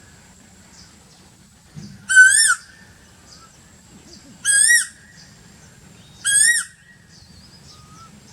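Asian koel calling three times, about two seconds apart. Each call is a loud, clear note of about half a second that rises and then drops in pitch.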